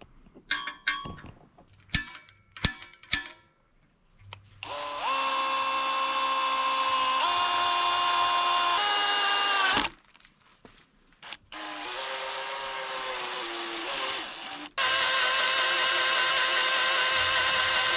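Electric drill boring through a rough weld on a thin steel part, first with a 1/8-inch bit and then reaming the hole out with a step bit. A few light clinks come first, then the drill runs in three bursts with a steady whine whose pitch shifts in steps. The last and loudest burst starts near the end.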